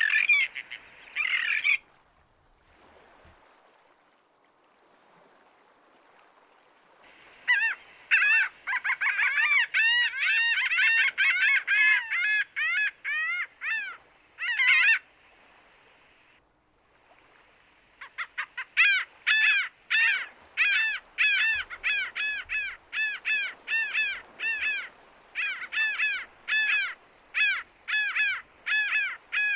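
A bird calling in repeated harsh, arching notes: a short run at the start, a dense chattering run partway through, then a steady series of about three calls a second in the second half, with quiet pauses between.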